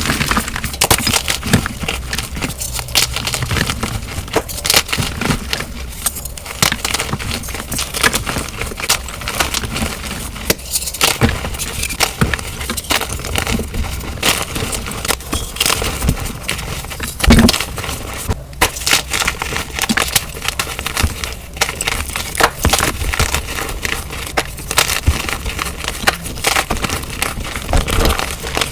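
Dyed gym chalk blocks being crushed and crumbled by hand, a dense run of crisp crunches and crackles, sped up to double speed. One heavier crunch stands out about two-thirds of the way through.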